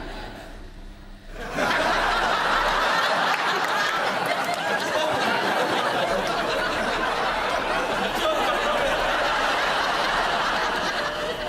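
Studio audience laughing, swelling up about a second and a half in and carrying on steadily.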